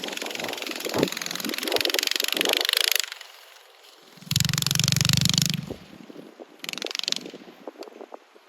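Monster Moto mini bike's Predator 212 single-cylinder four-stroke engine running under way, surging loud and fading in turns. It is loudest about four to six seconds in.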